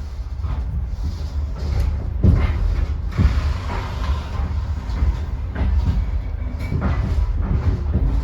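Passenger railway carriage moving off from a station: a steady low rumble broken by irregular knocks and clanks.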